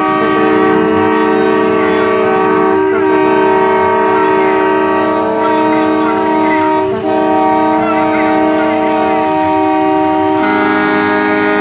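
Truck air horns sounding a loud, held multi-tone chord. The chord shifts about seven seconds in and again near the end.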